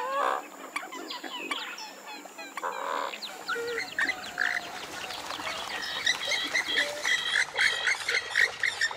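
Western swamphen (purple swamphen) calling: a jumble of overlapping calls, settling about six seconds in into a fast repeated series of calls, two or three a second.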